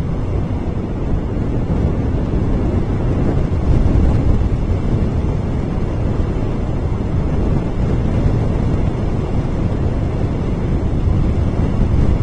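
Wind buffeting an outdoor nest camera's microphone: a steady low rumble.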